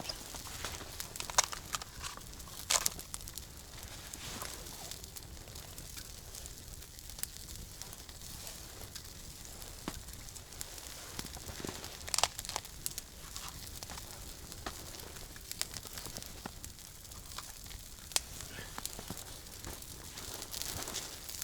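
Wood campfire crackling, with irregular sharp pops over a steady low hiss; the loudest pops come about a second and a half in, near three seconds, and about twelve seconds in.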